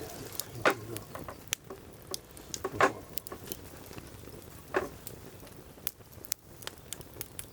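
Firewood burning in a campfire grill, crackling with irregular sharp snaps and a few louder pops.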